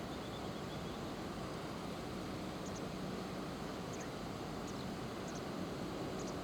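Steady outdoor background noise, a constant low rush, with faint, short, high chirps of small birds about five times from partway in.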